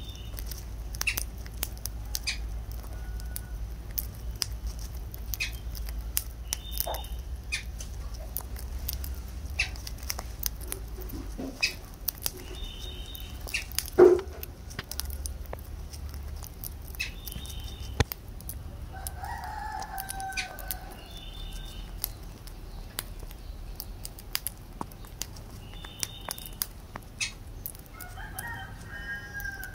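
Caged lovebirds with many scattered sharp clicks and taps, short high chirps every few seconds, and a louder knock about halfway through. Two lower, longer calls come around two-thirds of the way in and again near the end.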